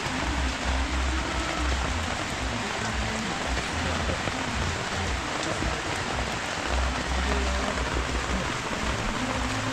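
Steady rain falling, an even hiss, with uneven low rumbles on the microphone.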